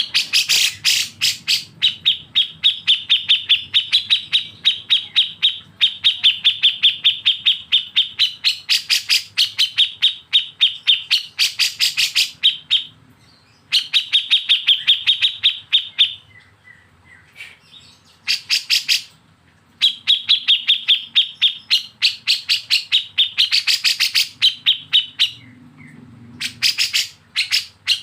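Bulbul besetan: long runs of rapid, evenly repeated notes, many a second, broken by a few short pauses.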